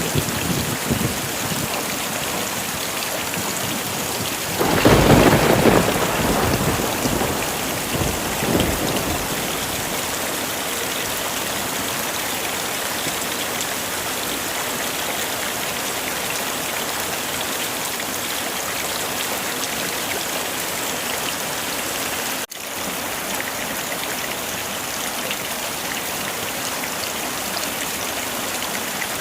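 Heavy rain falling steadily, with a thunderclap about five seconds in that rumbles on for a couple of seconds and a weaker rumble a few seconds later. A brief dropout comes about two-thirds of the way through.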